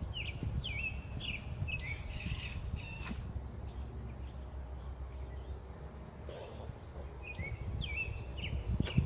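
Bird chirping: short repeated calls in two runs, one in the first two seconds and another after about seven seconds, over a steady low rumble. A sharp click just before the end.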